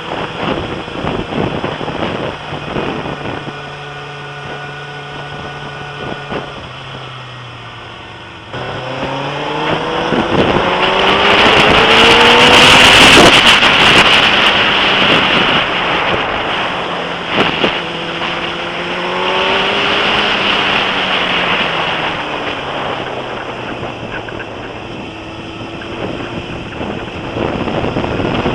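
Suzuki GSX-R sportbike engine on the move: a steady drone that then rises in pitch as the bike accelerates hard through the gears about a third of the way in, and again more briefly later. Heavy wind buffeting on the bike-mounted camera's microphone, loudest as speed peaks.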